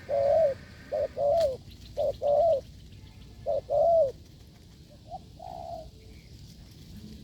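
A dove cooing hard: a quick run of two-part coos, each a short note followed by a longer rising-and-falling one, four times about a second apart, then a fainter, shorter coo.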